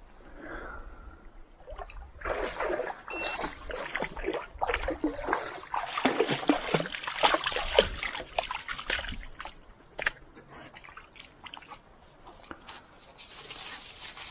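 Irregular splashing and sloshing of water in the shallows of a pond, busiest for several seconds in the middle, then a few scattered drips and ticks.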